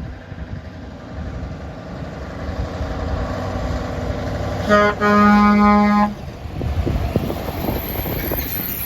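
Truck air horn sounded as a short toot followed by a held single-note blast of about a second, over the engine and road noise of an approaching Scania V8 lorry.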